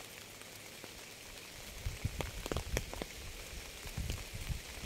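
Rain falling in a steady hiss, with individual drops landing as sharp clicks, most of them about two to three seconds in, and a few dull low thuds.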